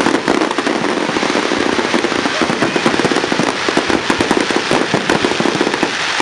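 Fireworks crackling: a dense, rapid stream of small pops and bangs that run together with no pause.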